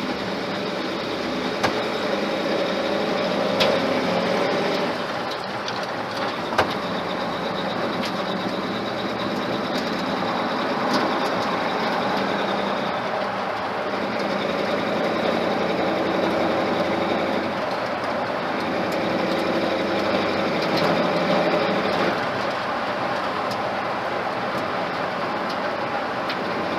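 Ford flathead engine running steadily with the choke pushed in, heard from inside the truck's cab.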